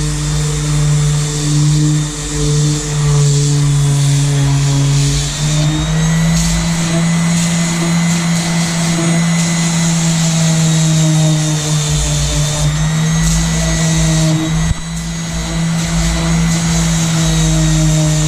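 Electric power sander running steadily, with a constant motor hum that steps up slightly in pitch about five and a half seconds in.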